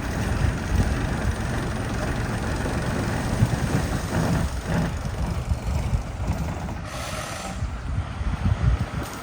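A vehicle running on the move, a steady, uneven low rumble with some hiss.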